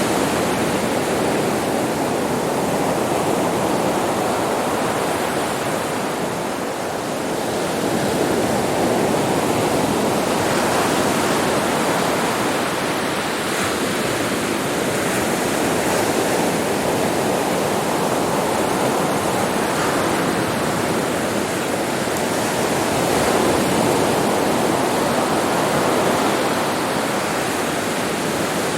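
Sea surf washing onto a beach: a continuous rush of water that slowly swells and eases, with a brief lull about seven seconds in.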